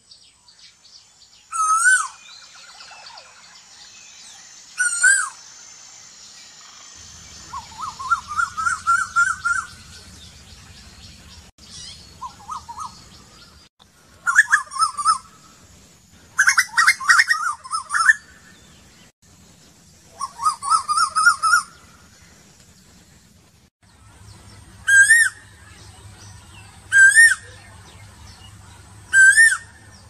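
Bird calls: short whistled notes with a quick up-and-down flick in pitch, repeated every two or three seconds, alternating with bouts of rapid trilled notes in the middle stretch.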